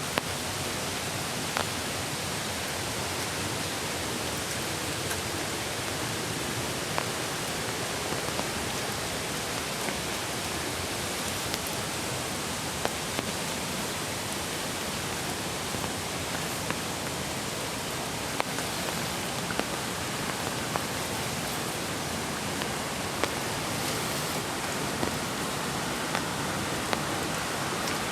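Steady rush of a mountain creek's flowing water mixed with light rain, with scattered sharp ticks throughout.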